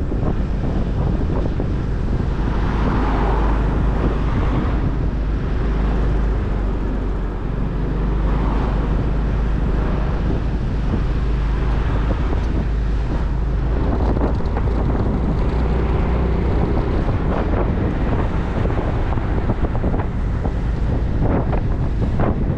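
Motorcycle engine running while riding, with wind buffeting the microphone. There is a steady low rumble under a broad rushing noise.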